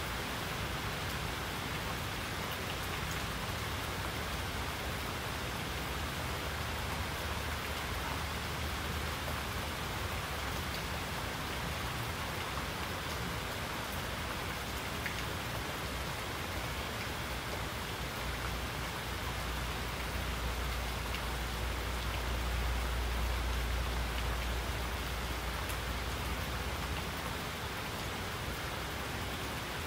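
Steady rain falling: an even, continuous hiss of many drops. A low rumble swells up about two-thirds of the way through and eases off again near the end.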